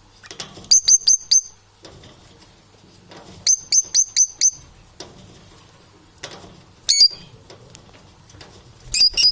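Parrots chirping: quick runs of four or five sharp, high chirps about a second in and again around three and a half seconds, a single call near seven seconds, and another quick run near the end.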